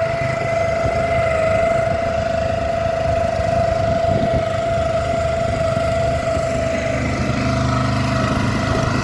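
Honda GX160 single-cylinder four-stroke air-cooled petrol engine driving a longtail outboard propeller, running steadily with a strong steady whine over the engine note.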